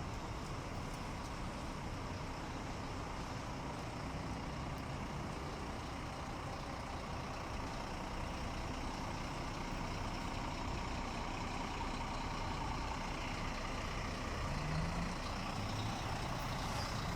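Scania K400 bus running, a steady diesel engine rumble that grows a little louder near the end.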